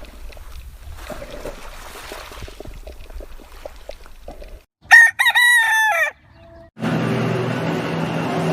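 A rooster crows once, a loud cock-a-doodle-doo of about a second, roughly five seconds in. Before it there are faint clicks and rustling; after it a steady hum with background noise begins.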